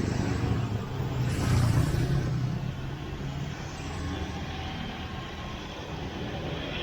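Road traffic: a motor vehicle's engine rumble swells about a second and a half in and fades away, over a steady hiss.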